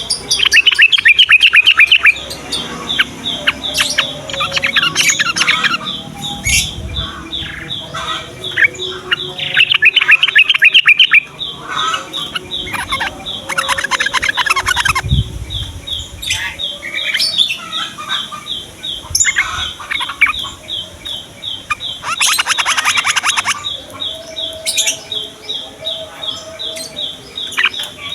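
Yellow-vented bulbuls (trucukan) calling and singing: loud bursts of rapid, repeated chattering notes with short bubbly phrases between them, recurring every few seconds.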